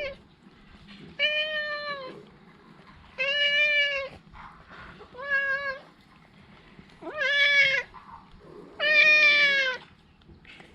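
A domestic cat meowing repeatedly: five drawn-out meows about two seconds apart, with quiet gaps between them.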